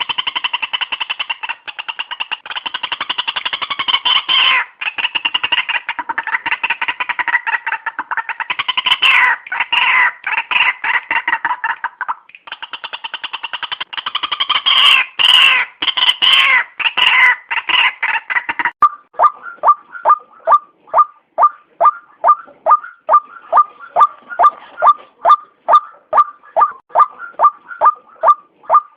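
White-breasted waterhen (ruak-ruak) calling. First comes a long, dense run of rapid rough notes with a short break partway through. From about two-thirds of the way in, it changes to an even series of single notes, about two a second.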